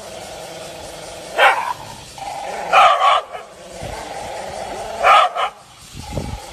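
Dog barking: three short barks spread a second or two apart.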